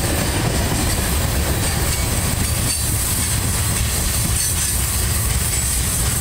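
Freight cars of a long mixed train (tank cars and covered hoppers) rolling past at close range: a steady, heavy rumble and clatter of steel wheels on the rails.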